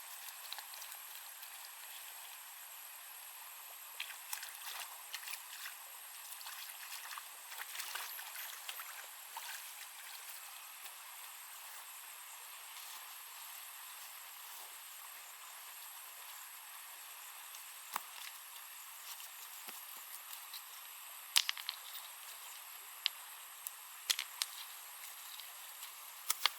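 Outdoor forest ambience: a steady hiss with a constant high whine, broken by scattered light clicks and snaps that come more often and louder near the end.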